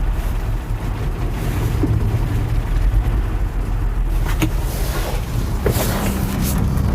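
Ford 300 cubic-inch inline-six engine idling unevenly after a cold start, which the owner puts down to it running on only four cylinders and needing plugs, wires, cap and rotor. A few light clicks or knocks sound over the idle about four to six seconds in.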